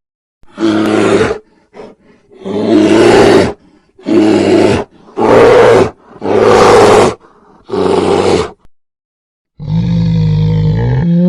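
A big cat roaring: six separate roars, each lasting about half a second to a second. Near the end a longer, pitched call that bends up and down takes over.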